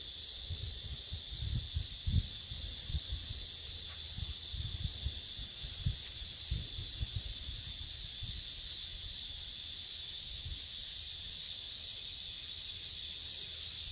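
Steady outdoor insect chorus: a continuous high buzzing drone, with a second, higher-pitched insect call that switches on and off in long stretches. Irregular low rumbles come and go during the first half.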